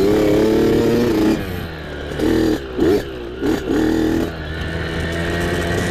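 Small off-road mini bike engine under riding throttle. It holds a high rev for about a second and a half, drops off, blips up and down several times, then settles to a lower, steadier pull near the end.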